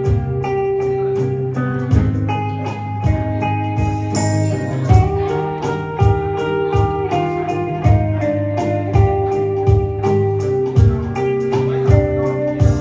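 Instrumental break of a rock song with no vocals: a guitar plays a melody of held notes over bass and a steady drum beat with regular cymbal ticks.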